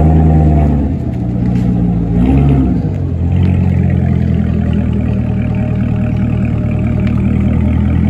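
C7 Chevrolet Corvette V8 blipped twice, pitch rising and falling each time, in the first three seconds, then idling steadily and loud.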